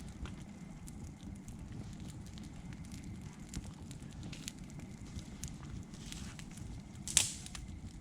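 Campfire of dry birch wood burning: scattered crackles over a steady low rumble, with one loud sharp pop about seven seconds in.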